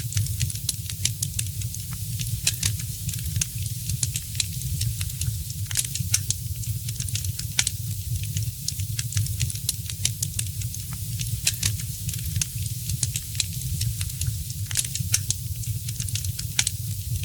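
Wood fire in a fireplace crackling: frequent irregular sharp pops and snaps over a steady low rumble and hiss.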